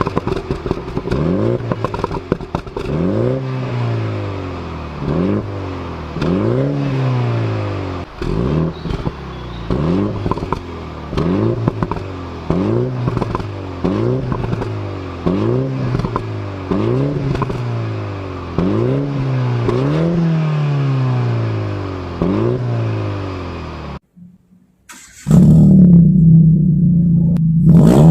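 Car exhausts of a Proton Satria Neo, fitted with a Spoon exhaust, and a Mini Cooper revved from idle in quick repeated blips. Each rev rises sharply in pitch and falls back, about one every second and a half. Near the end the revving stops briefly and a loud steady low drone takes over.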